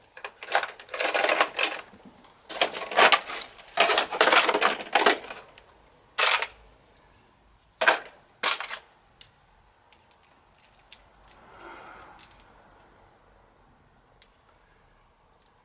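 Loose metal hardware being rummaged through, small parts clinking and jangling together in a dense run of clatter for the first five seconds or so, then a few single clinks and faint light ticks.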